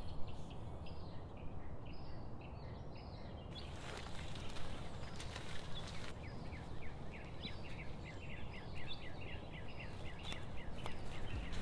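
Small birds chirping in quick repeated calls over a steady low outdoor rumble. The background changes a couple of times partway through.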